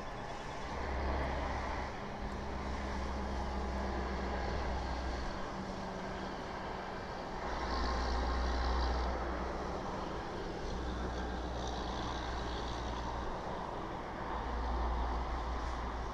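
Steady outdoor background rumble, with a deep low hum that swells and fades several times.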